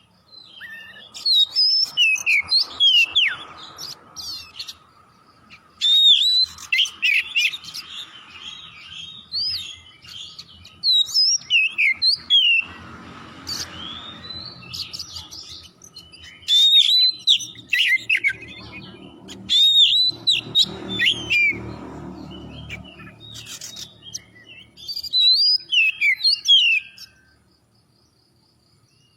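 Oriental magpie-robin (kacer) singing in energetic bouts of quick, varied whistled phrases that glide up and down, separated by short pauses. A low hum runs under the song through the middle, and the song stops shortly before the end.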